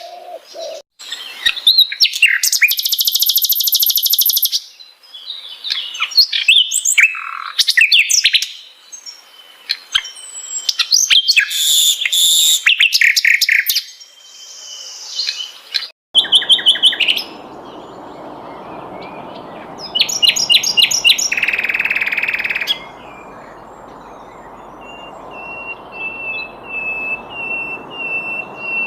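Sikatan londo flycatcher singing a varied song of quick high chirps, trills and buzzy rattling phrases. About halfway through, a steady hiss comes in behind the song. Near the end the bird holds a rapid, even series of short high notes.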